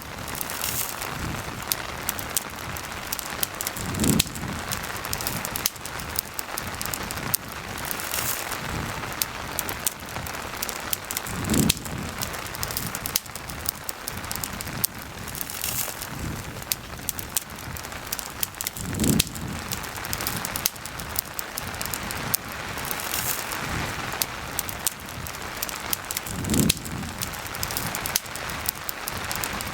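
Steady rain with a campfire crackling and popping in short sharp clicks. A soft low thud sounds four times at even intervals, about every seven to eight seconds.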